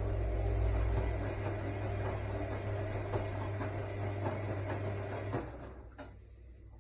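AEG Lavamat L62850L washing machine running, its motor turning the drum with a steady hum and faint small clicks. The motor stops about five seconds in, followed by a sharp click.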